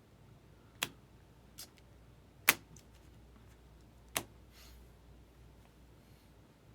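Four short sharp taps of trading cards being handled and set down on a table, the loudest about two and a half seconds in.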